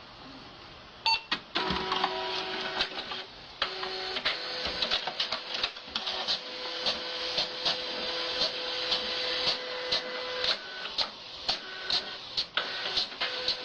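A printer starting up about a second in, then running with a steady hum and many repeated sharp clicks as its mechanism feeds and prints.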